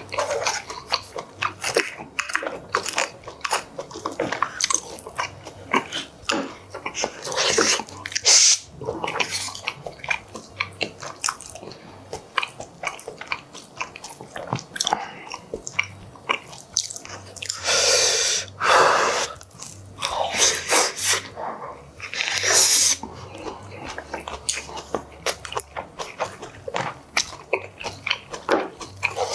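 Close-miked chewing and wet mouth sounds of a person eating braised pork kimchi stew with rice: a steady stream of smacks, clicks and squelches. A couple of longer hissing sounds come about two-thirds of the way in.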